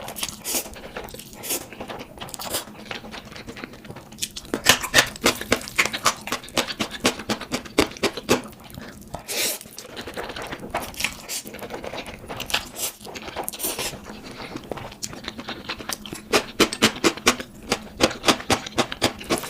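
Close-miked eating sounds of instant noodles being slurped and chewed, in runs of quick clicks and smacks with short pauses between.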